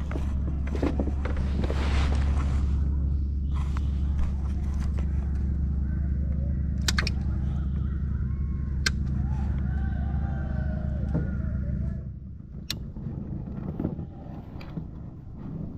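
A boat's engine running steadily with a low hum, which falls away about twelve seconds in, with a few sharp clicks over it.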